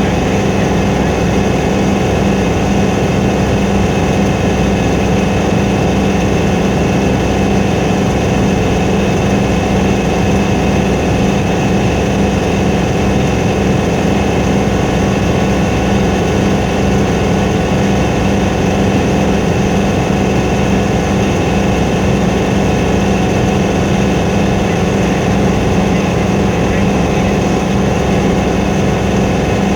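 Helicopter engine and rotor drone heard from inside the cabin: a loud, steady hum with a strong low tone that does not change.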